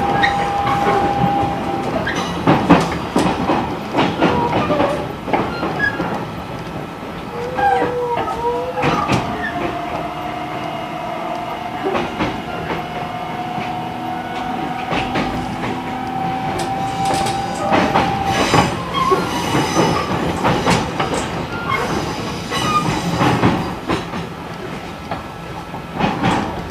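E129-series electric train running sound heard from inside the car as it slows toward a station: wheels clicking over rail joints and points at irregular intervals, with a long steady high-pitched whine through the middle that stops about two-thirds of the way in.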